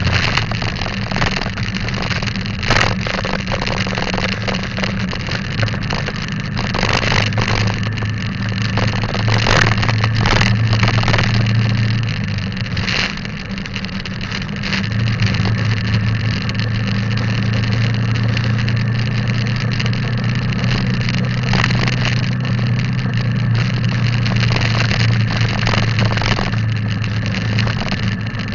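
Motorbike engine running at a steady cruise, easing off briefly about halfway through and then pulling steadily again, over a constant rush of wind and road noise with several short knocks.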